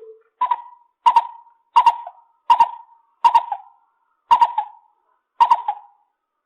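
Lesser coucal calling a series of short, hollow notes, about one every 0.7 s, seven in a row after a lower note at the very start.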